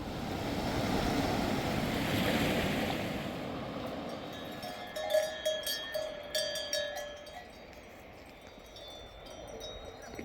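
A rushing noise swells and fades over the first few seconds. Then metal sheep bells start clanking and ringing, with several sharp clanks in the middle and lighter ringing near the end.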